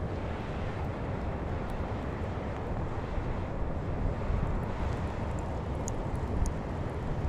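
Wind buffeting the microphone as a steady low rumble, with a few faint ticks about five to six seconds in.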